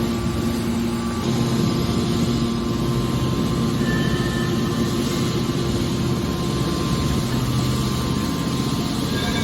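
Hydraulic metal baler's power unit running: a steady machine hum with a low, even drone from the electric motor and hydraulic pump.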